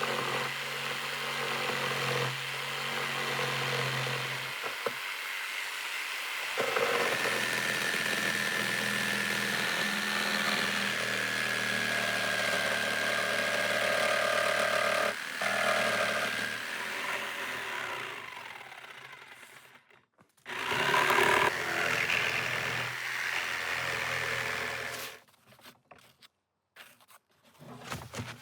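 A motor-driven machine running steadily with a low hum and a higher whine whose pitch shifts under load. It stops about 20 seconds in, runs again briefly, then cuts off.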